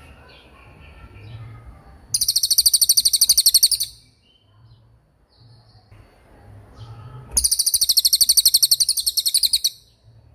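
A small songbird giving two long, very high-pitched rapid trills, each lasting about two seconds, with softer chirps between them.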